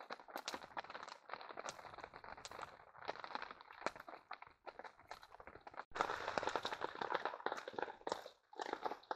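Rain pattering with scattered clicks and taps. About six seconds in, a cut to a louder, steadier hiss of rain over a crackling campfire.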